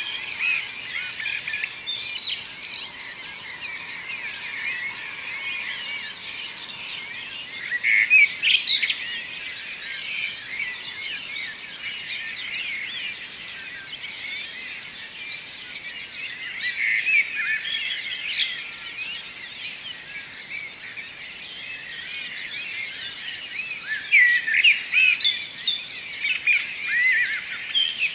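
Several birds singing together in a morning chorus: many overlapping chirps and trills, with louder flurries of song about 8 s in, around 17 s and again near the end.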